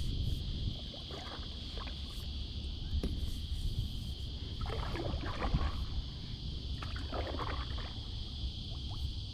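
Small fiberglass rowboat moving through shallow water, with water splashing around the hull in two bursts about five and seven seconds in, plus a few light knocks. Underneath runs a steady low rumble and a constant high-pitched hiss.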